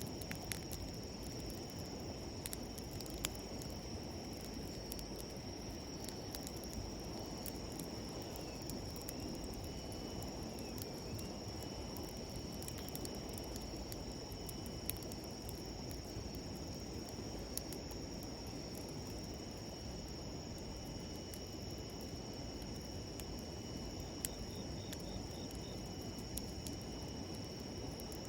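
Wood campfire crackling and popping now and then over the steady low rush of a river, with insects trilling steadily in a high, thin band.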